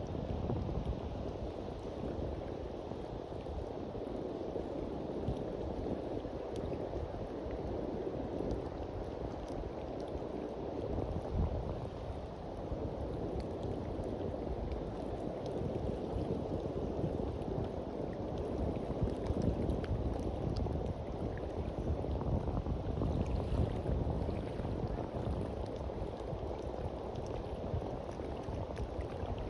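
Sea waves washing onto a beach: a steady, low wash of surf that swells and eases without a break.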